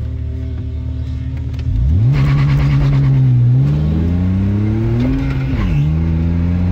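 Car engine heard from inside the cabin, running steadily at first. About two seconds in it revs up hard and gets louder, climbing in pitch as the car accelerates. Near the end the pitch drops sharply and then rises again.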